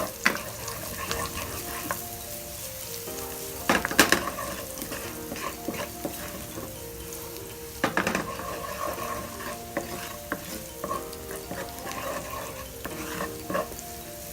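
Garlic sizzling in hot oil in a frying pan while being stirred with a wooden spoon, with scattered knocks and scrapes against the pan; the loudest knocks come about 4 and 8 seconds in.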